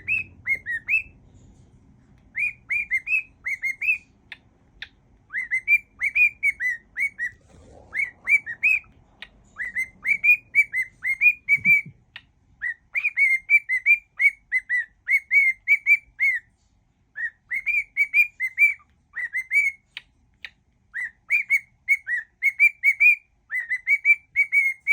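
A cockatiel whistling a tune: runs of clear, pure whistled notes, each swooping down and back up, in phrases with short breaks between them.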